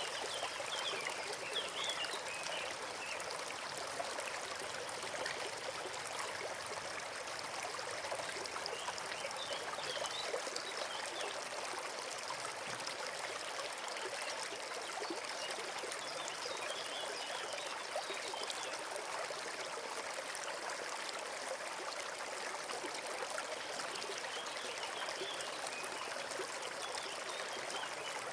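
A forest stream running over stones with a steady rushing and trickling. A few faint high bird chirps come in now and then.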